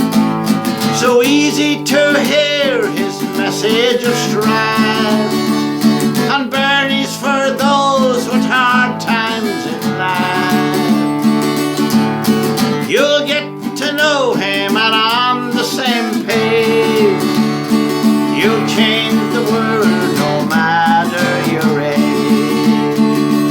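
Country-style music: a steadily strummed acoustic guitar with a wavering melody line over it that bends up and down in pitch in short phrases.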